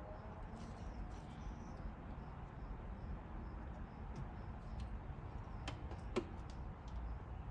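Faint handling of a lower intake plenum gasket, with a couple of sharp clicks a little past halfway as its side clips snap into place, over a steady low hum.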